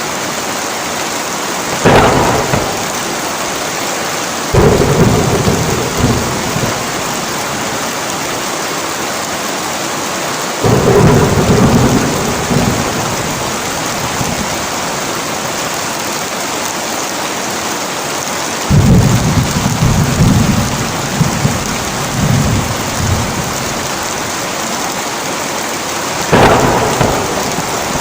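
Heavy rain falling steadily through a thunderstorm, with five rolls of thunder. A sharp clap comes about two seconds in, longer rumbles follow around five, eleven and nineteen seconds, and another clap comes near the end.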